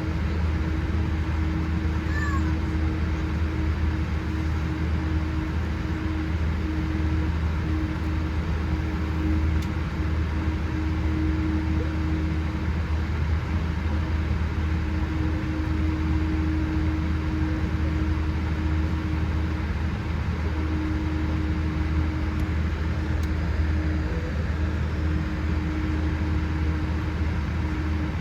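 Steady cabin noise inside a Boeing 787-8 Dreamliner on the ground: a low hum with a mid-pitched tone that fades in and out, and a brief faint squeak about two seconds in.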